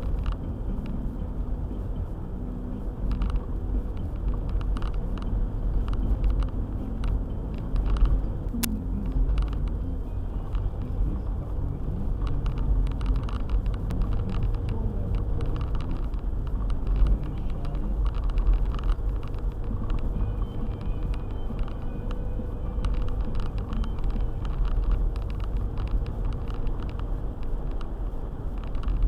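Four-wheel-drive car driving on a snowy road: a steady low rumble of engine and tyres, with frequent light ticks over it.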